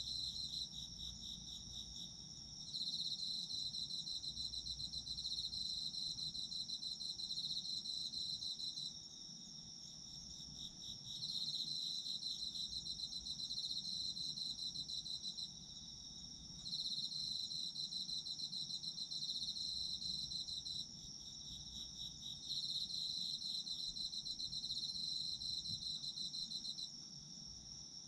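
Autumn crickets chirping. One high trill holds steady throughout, and a second, slightly lower pulsed trill comes and goes in bouts of about four to six seconds with short pauses between.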